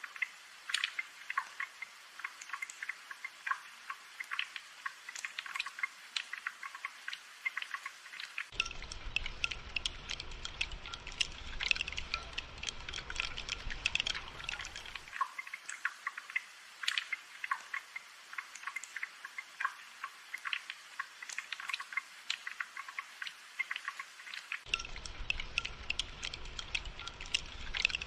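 Steady rainfall, a dense patter of drips and drops. A low rumble comes in about eight seconds in, drops out about fifteen seconds in and returns near the end.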